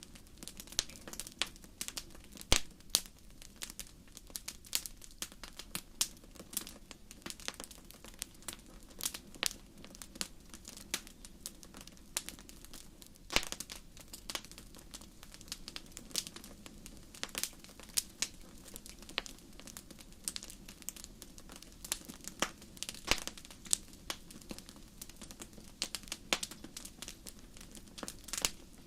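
Fire crackling: irregular sharp pops and snaps, several a second and varying in strength, over a low steady background noise.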